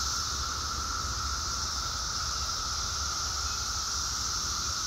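Steady, unbroken chorus of Brood X periodical cicadas: a continuous high hiss with a lower, droning buzz beneath it.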